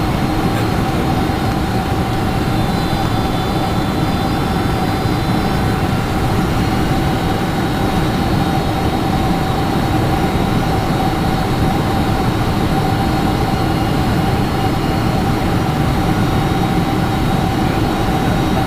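Steady cabin noise of a Boeing 747-400 heard from inside the cabin: jet engine drone and airflow with a steady mid-pitched whine running through it.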